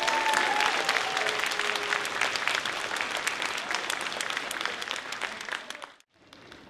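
Concert audience applauding right after an orchestral piece ends, with a few voices calling out in the first couple of seconds. The sound cuts out abruptly about six seconds in, then the applause comes back.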